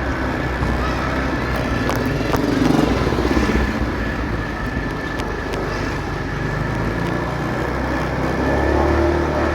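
A motorcycle engine running while riding through city traffic, with road and wind noise. The engine note swells twice, about three seconds in and again near the end.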